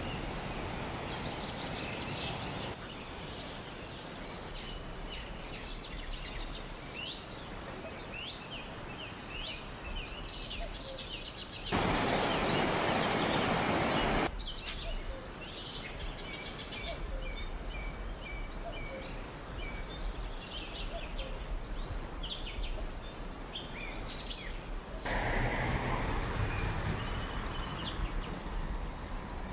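Many small birds chirping and singing over a steady rushing background noise. The noise jumps louder for about two seconds a little before the middle, and again for the last few seconds.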